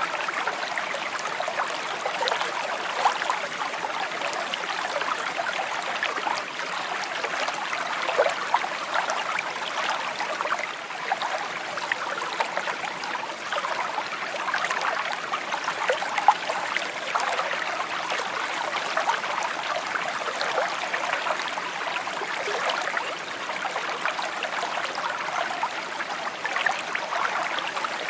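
A shallow stream trickling and babbling over stones, a steady flow of water with many small gurgles and splashes.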